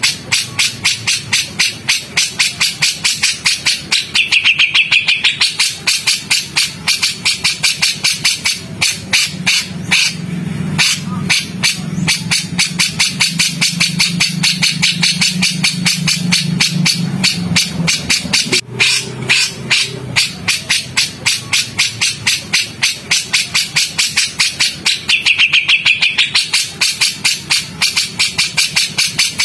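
Recorded songbird calls: a harsh, rapid chattering of dry click-like notes, about five a second, with a short higher chirping phrase twice. This is the 'rough shot' (tembakan kasar) type of call used as tutor song for magpie-robins. A low hum sits underneath for several seconds in the middle.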